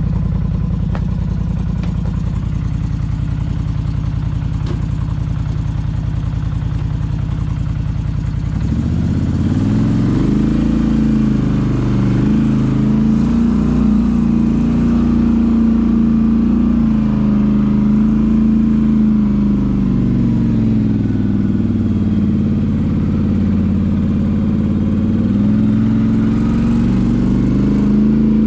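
Polaris Sportsman 850 ATV's parallel-twin engine and exhaust idling steadily. About eight seconds in it revs up and keeps running at higher revs, the pitch dipping and rising again a few times.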